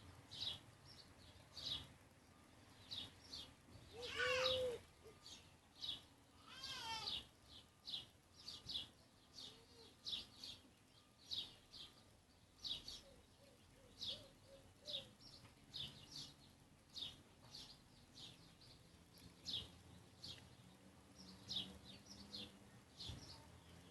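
A bird chirping repeatedly with short, high notes about once a second, with two longer, louder calls about four and seven seconds in.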